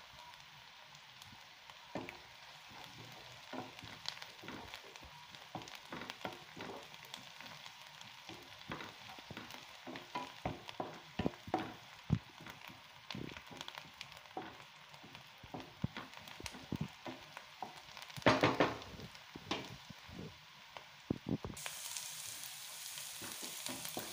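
Chopped onions, garlic and curry leaves sizzling in oil in a pan, stirred with a spatula that scrapes and taps against the pan again and again. There is a louder stretch of stirring about three-quarters through, and the sizzle turns hissier near the end.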